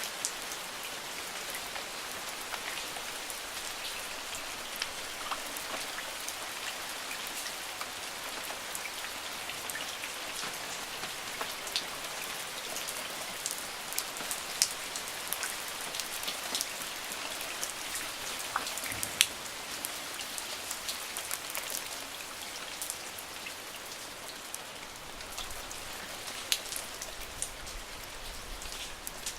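Steady rain: a constant hiss with many close raindrops ticking sharply, a few single drop hits louder than the rest.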